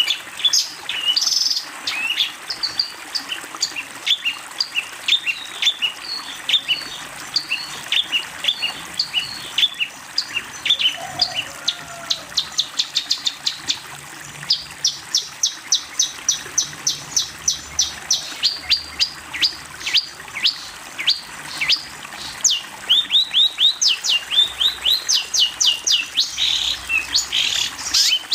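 Long-tailed shrike (cendet) singing a busy song of short, sharp chips, in places run together into fast series of several notes a second, with falling notes toward the end.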